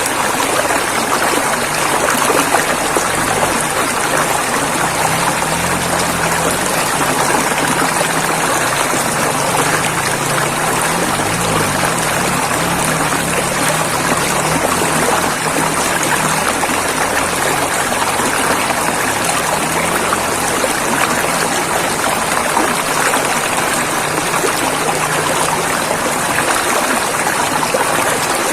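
Flowing river water rushing steadily, without a break.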